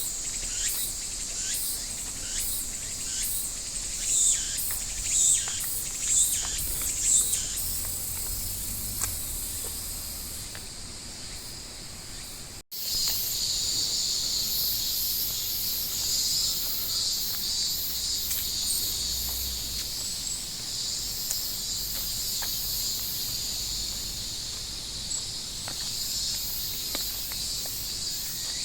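Cicadas singing: a high-pitched buzzing chorus that pulses in rapid repeated bursts for the first several seconds, then settles into a steadier continuous drone. The sound cuts out for an instant about halfway through.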